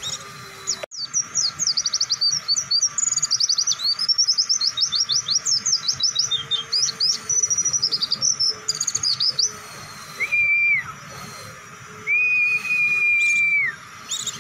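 White-eye (pleci) singing a long, fast run of high chirping notes for about eight seconds, then two long, level whistled notes near the end.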